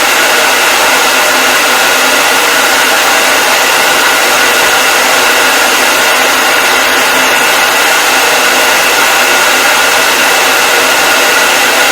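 Hair dryer running continuously at a steady speed: a loud, even whoosh of blown air with a faint constant motor whine.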